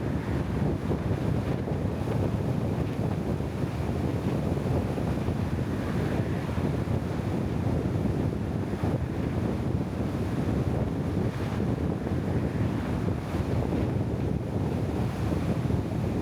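Steady low rushing, fluttering noise of wind buffeting the microphone.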